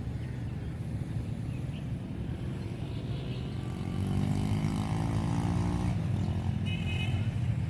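Diesel locomotive engine running with a steady low throb that gets louder about four seconds in. A short high-pitched tone sounds near the end.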